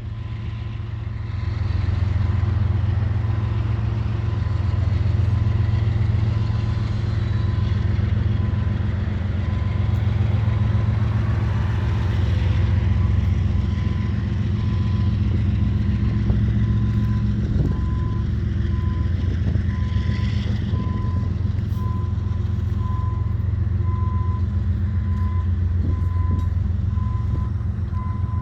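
Train rolling slowly past: a loud, steady, deep rumble with a few clanks in the second half. A repeating high beep joins about halfway through.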